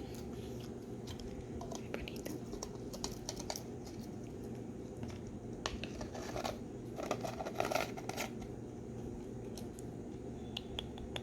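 Scattered small clicks, crackles and scratching, busiest a little past the middle, over a steady low hum.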